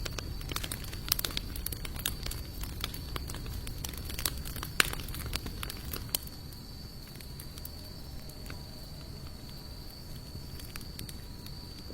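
Wood campfire of sawtooth oak and mixed hardwood logs crackling, with sharp pops coming thick and fast, then thinning out after about six seconds.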